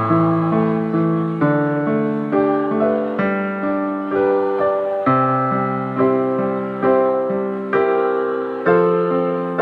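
Keyboard playing slow sustained chords, a new chord struck about once a second and fading before the next.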